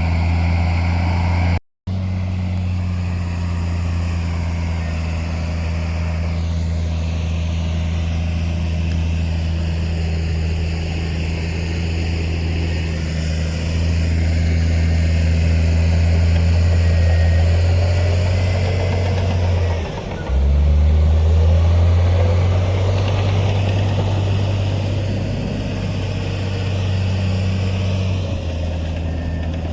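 Heavy diesel engine of earthmoving machinery running steadily with a low hum. The sound cuts out for a moment about two seconds in. About two-thirds of the way through the engine note dips briefly and comes back slightly changed.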